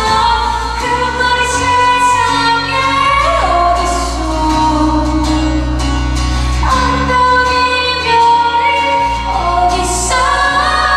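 A woman singing a pop ballad live with musical accompaniment, holding long notes that step from one pitch to the next over a steady bass line.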